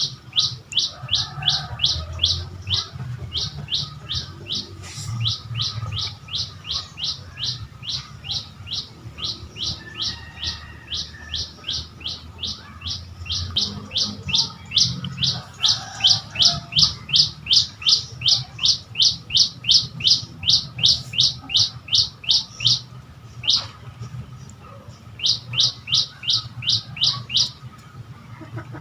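A bird calling in a fast, even series of short, high chirps, about three to four a second, each sliding quickly downward. There is a pause of about two seconds near the end before the series starts again.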